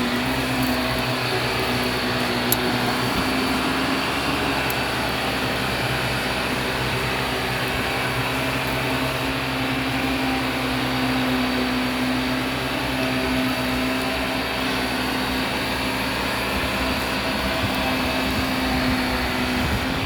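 Vacuum cleaner running steadily, its motor hum holding a nearly even pitch, with one small click about two and a half seconds in.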